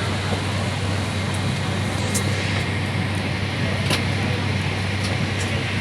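Steady cabin noise inside an airliner: a low drone and a rush of air, with a faint high whine and a few light clicks.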